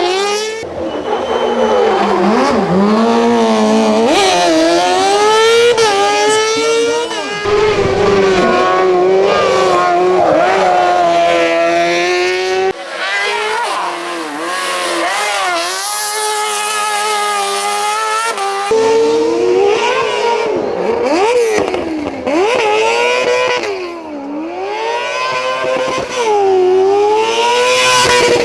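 Kartcross car's 600cc motorcycle engine revving hard toward 16,000 rpm, its pitch climbing and dropping again and again through gear changes and throttle lifts. The sound jumps abruptly several times as one run gives way to another.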